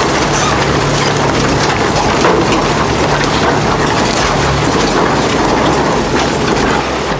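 Heavy shredding machine running under load, with a steady low drone and a dense, continuous crunching and crackling of material being broken up.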